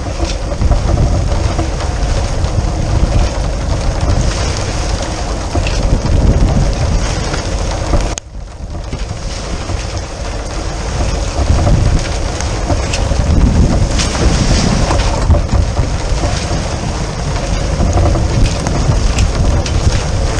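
Wind buffeting the microphone aboard a sailboat, with rain and rushing water noise over a heavy low rumble. The level drops suddenly and briefly about eight seconds in.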